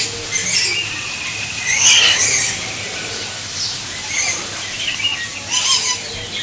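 Birds giving shrill squawks and chirps in short, separate calls. The loudest comes about two seconds in, with another cluster near the end.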